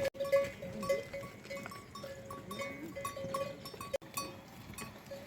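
Small bells on livestock clinking irregularly as the animals move, with a couple of faint animal calls.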